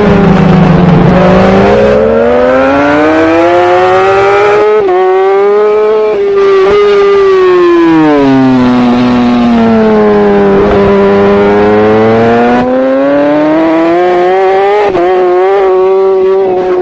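Racing superbike engine at high revs, its pitch dropping twice as it slows and climbing again through the gears, with brief dips at each upshift.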